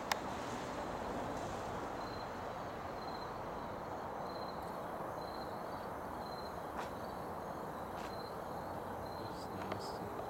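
Steady outdoor background hiss and rumble, with a cricket chirping faintly and evenly, about once or twice a second. A few faint clicks, one right at the start.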